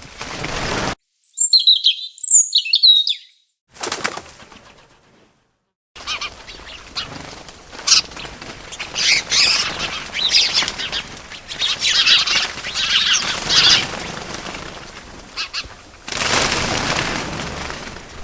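Small birds chirping, with wing flutters. A few clear, short high chirps come about a second in, then a brief rush of flapping. From about six seconds a busier run of chirps plays over a noisy background.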